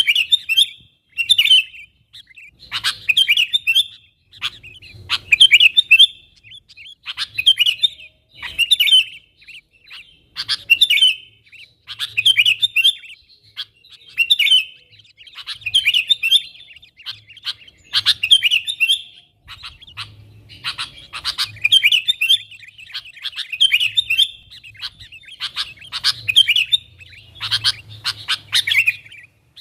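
Sooty-headed bulbul singing energetically: short, bubbling, chattering phrases repeated in quick succession, about one every second or so.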